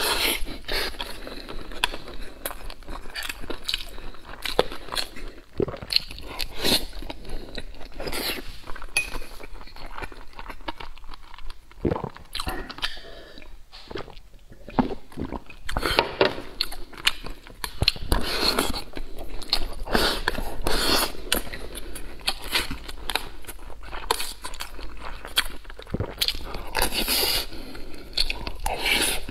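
Close-miked chewing of braised pork belly and purple rice, a dense run of mouth clicks and smacks, with a pause midway to drink from a glass.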